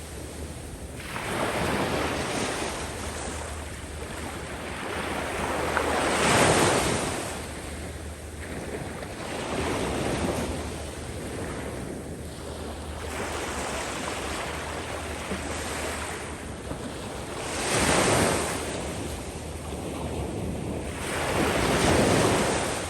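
Surf on a sandy beach: waves break and wash up the sand in repeated swells, each rising to a loud rush and then hissing back. There are about five surges, the loudest about six seconds in and near the end.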